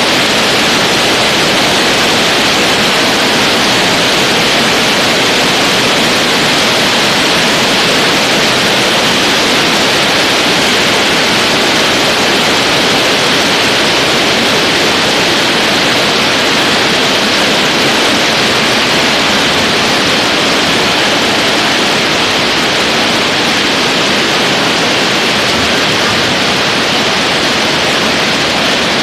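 Hailstorm with heavy rain pelting down: a loud, dense, steady hiss of countless impacts.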